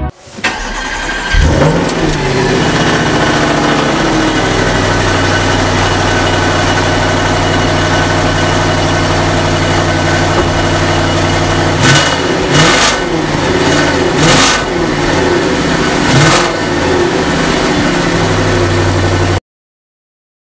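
Audi RS5's 4.2-litre V8 starting with a quick rev flare, then idling steadily. About twelve seconds in it is blipped four times, each rev bringing crackles from the exhaust, before it settles back to idle and cuts off suddenly near the end.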